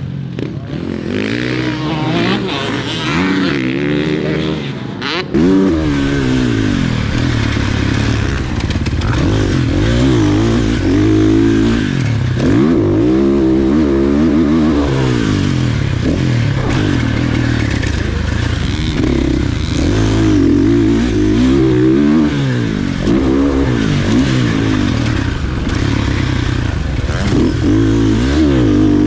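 Motocross dirt bike engine ridden hard around a track, revving up and dropping back again and again through the corners and jumps. There is a sharp knock about five seconds in.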